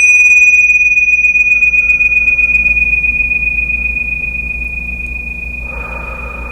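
Meditation chime struck once, ringing with one clear high tone that slowly fades; its higher overtones die away within about three seconds. Near the end a soft hiss rises underneath.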